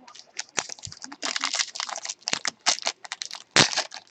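Foil wrapper of a trading card pack crinkling and tearing as it is opened, a rapid run of irregular crackles.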